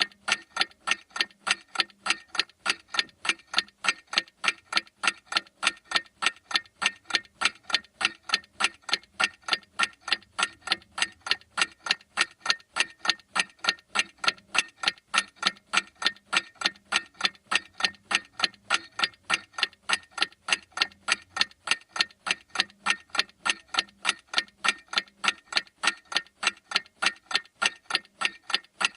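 Clock ticking steadily, with sharp, evenly spaced ticks at a few per second.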